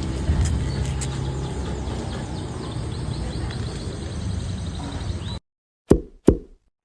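Steady outdoor background noise with a low rumble, cut off abruptly about five seconds in, followed by two short pops close together.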